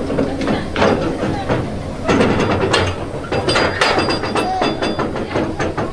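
A quick series of metallic clanks and clinks, several with a brief high ringing, bunched together from about two seconds in.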